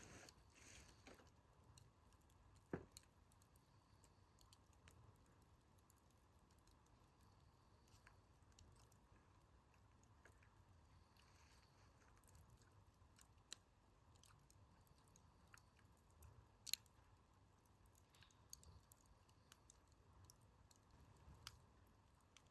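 Wood fire crackling quietly, with scattered sharp pops; the loudest come about three seconds in and again near the end.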